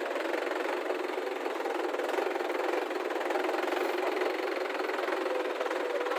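A heavy diesel engine running steadily with an even, unbroken hum.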